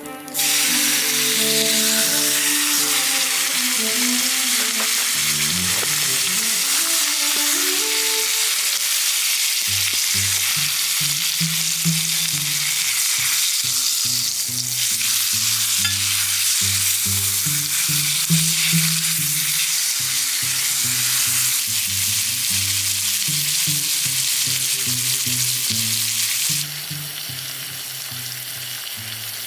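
Food sizzling and frying in a hot pan, a steady hiss that drops quieter near the end, with a background music track underneath.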